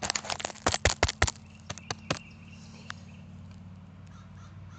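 Handling noise from a phone being taped onto the dirt bike: a quick run of sharp clicks and knocks over the first two seconds, then only a faint steady low hum.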